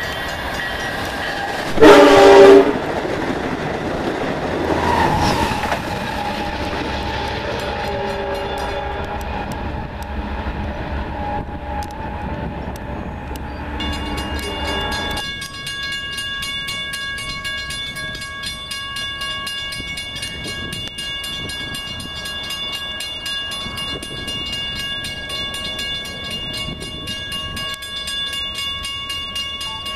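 Diesel train horn sounding one short, very loud blast about two seconds in, then a weaker horn note a few seconds later, over the rumble and clickety-clack of a train running through. The low rumble stops abruptly about halfway through, leaving steady high ringing tones with an even ticking rhythm.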